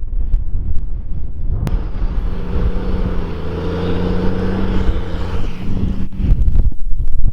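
Diesel engine of a New Holland tractor pulling a scraper, heard as the machine passes: it comes up about two seconds in, peaks mid-way and fades away. Wind buffets the microphone before and after.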